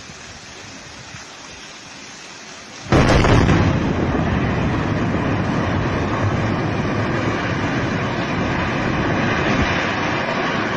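A low steady background noise, then about three seconds in a sudden loud rumble that carries on steadily.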